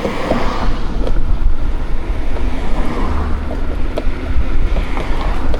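Wind buffeting the microphone while riding a bike along a road, with a deep rumble and a few light knocks.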